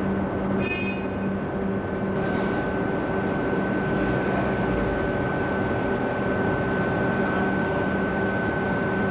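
Railway locomotive running steadily, a constant hum with a thin high whine over it and a brief higher-pitched sound under a second in.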